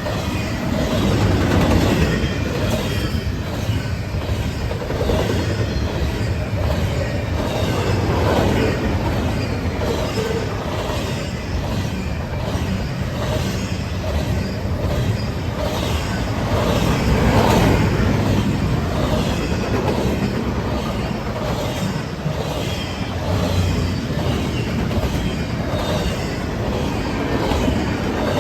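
Freight train rolling past, its car wheels clacking over the rail joints in a steady, repeating rhythm under a continuous loud rumble.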